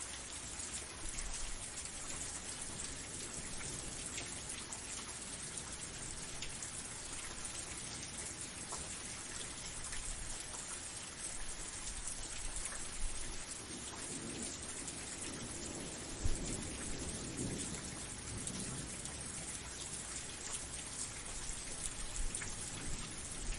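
Steady rain falling, with a low rumble of thunder a little past halfway through.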